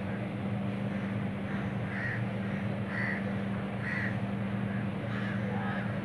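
A steady low hum with a bird calling three times, about a second apart, midway through, then lighter chirps near the end.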